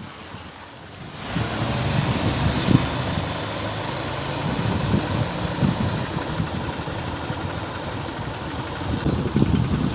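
Motor vehicle engine running with road and wind rumble, getting louder about a second in.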